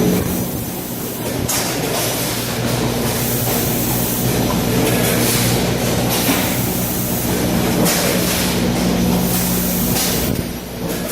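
Automatic rotary pouch packing machine running, a steady mechanical hum with hissy bursts recurring every two to three seconds as it cycles.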